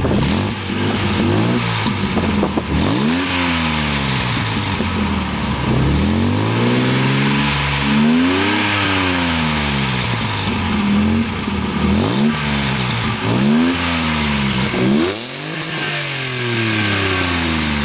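BMW M20B28 2.8-litre straight-six through a twin stainless-steel exhaust with MgRace and UlterSport mufflers, revved up and let fall back about seven times, settling toward idle between revs.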